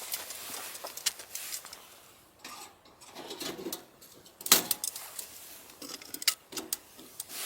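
Irregular light clatter and clinks of camping gear being handled, with rustling between them and a louder sharp knock about four and a half seconds in.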